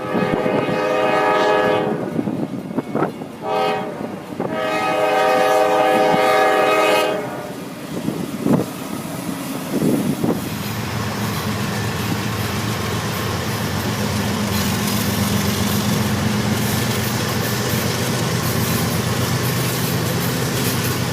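Train horn sounding a chord: a long blast, a very short one, then a longer blast. After that the train passes with a steady rumble of its engine and wheels on the rails.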